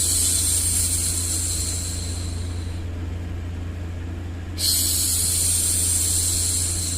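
A woman shushing a baby: two long, hissing 'shhh' sounds, the first fading out about three seconds in and the second starting sharply over a second later. Under them runs a steady low rumbling noise bed.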